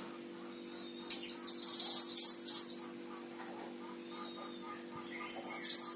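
Mantenan songbird singing: a burst of rapid, high chirping song about a second in that lasts nearly two seconds, then another burst near the end, over a faint steady low hum.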